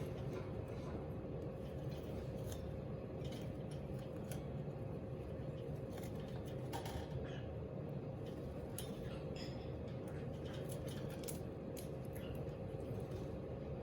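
Irregular small splashes and clicks of a cockatiel bathing in its water bowl, over a steady background hum.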